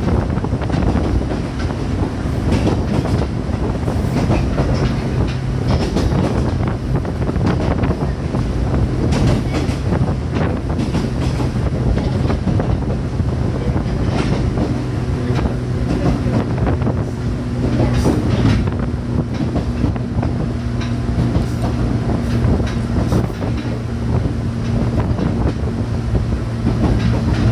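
JR 105 series electric train running along the track: a steady rumble with scattered wheel clicks over rail joints. A low motor hum runs throughout, and a second, higher steady tone joins about halfway through.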